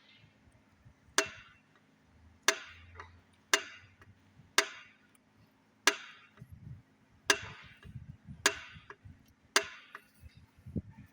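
Hammer blows during engine overhaul work: eight sharp strikes, about one a second, each with a short ringing tail.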